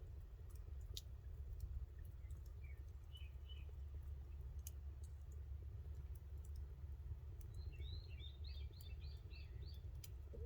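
Campfire crackling with sparse sharp pops over a steady low rumble. A bird gives a few faint chirps about a quarter of the way in, then a quick run of about seven chirping notes in the last third.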